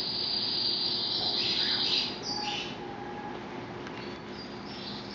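Pet canaries singing: a high, steady trill for about two seconds, followed by shorter high chirps.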